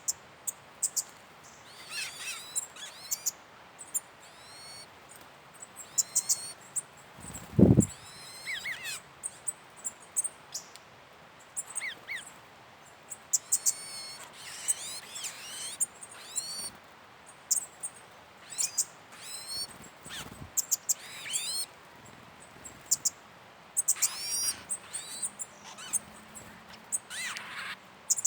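Wild birds in Atlantic Forest calling, with many short, high-pitched chirps and quick sliding notes coming in irregular clusters. One loud low thump sounds about seven and a half seconds in.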